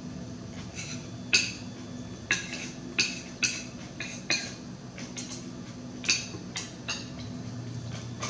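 Close-up eating sounds: irregular wet chewing and lip smacks, about fifteen short sharp ones, over a steady low hum.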